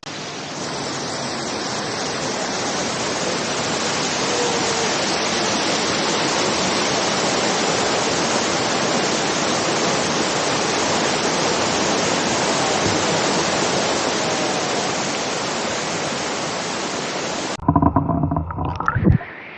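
Waterfall rushing with a steady roar that grows louder over the first few seconds as it is approached. About two seconds before the end the roar cuts off abruptly and gives way to a few loud, irregular thumps.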